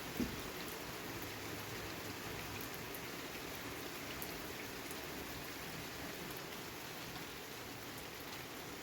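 Steady rain falling and pattering on surfaces during a downpour, with a single dull knock about a quarter second in.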